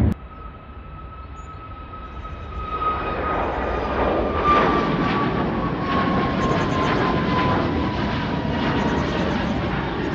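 Departing airliner's engines: a rumble builds from a few seconds in to a steady loud level, with a high whine that slowly falls in pitch.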